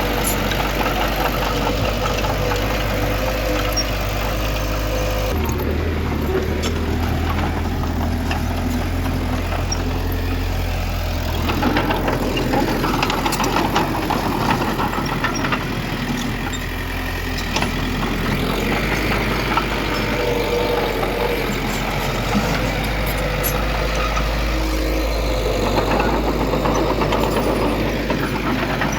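Diesel engine of heavy earthmoving machinery running steadily, its low hum changing pitch about five seconds in and again near twelve seconds, with scattered faint clicks.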